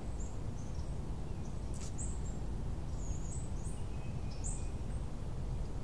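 Birds chirping, a scatter of short high chirps, over a steady low outdoor background rumble.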